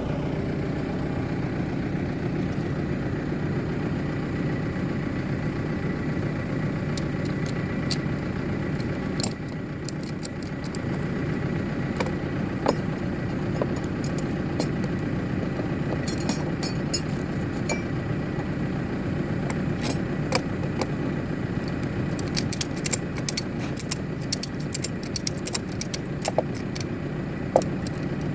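BCS Volcan K105 compact tractor's engine running steadily, easing off briefly about a third of the way in. Through the second half come many sharp clinks and rattles, typical of slate plates knocking together while being moved.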